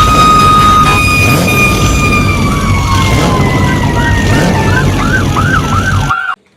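Toy fire truck's electronic siren sound effect. A held tone slowly drops in pitch, and about two and a half seconds in a fast up-and-down warble joins it, over a low rumble. It cuts off suddenly near the end.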